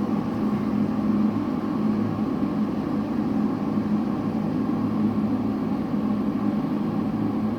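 Silvercrest SWKD 2400 B2 electric kettle heating water toward the boil: a steady rushing, boiling-water noise with a constant low hum underneath.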